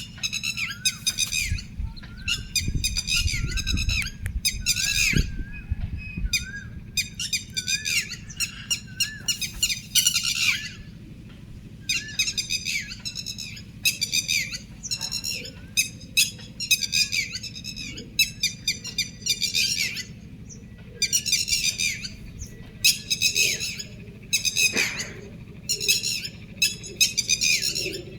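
Birds calling: a long run of harsh, raspy squawks, one every second or so, with softer chirps in the first half and a steady low rumble beneath.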